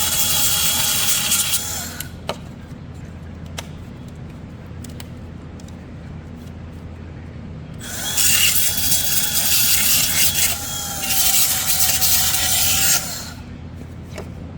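Small power tool with a steady whine cutting away plastic trim, in two runs: the first stops about two seconds in, the second starts about eight seconds in and stops near the end, briefly easing off midway. A few light clicks sound in the pause between them.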